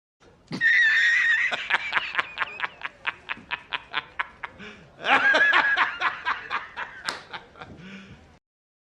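High-pitched laughter in two bouts: each starts with a held squealing note and breaks into rapid short giggles, about five a second, that trail off near the end.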